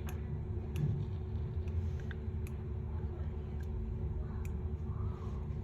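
Steady low hum with a few light, sharp clicks scattered through it, such as small tools touching a phone during repair.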